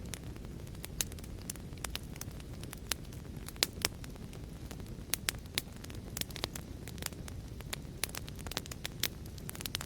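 Wood fire crackling: a steady low rumble of flame with irregular sharp pops and snaps, a few of them louder, one clearly loudest a little over three and a half seconds in.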